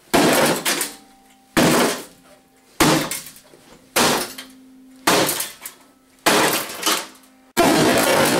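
Seven heavy smashing blows in a steady rhythm, about one every 1.2 seconds, each with a rattle of breaking plastic and glass as the object is demolished.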